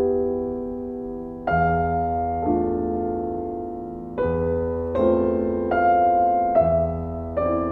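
Background piano music: slow, sustained chords, each struck and left to fade before the next.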